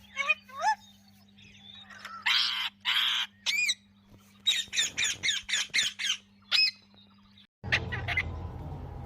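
Ringneck parakeets calling: short shrill calls, two harsh squawks, then a quick run of about seven rising-and-falling screeches at roughly four a second. Near the end the low background hum cuts to a louder, noisier background with a couple more calls.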